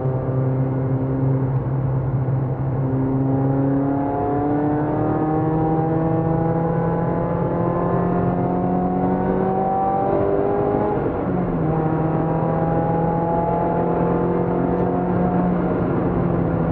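Peugeot 206 RC's 2.0-litre four-cylinder engine pulling under throttle, heard from inside the cabin; its pitch climbs slowly, drops once about eleven seconds in, then climbs again, over steady road noise.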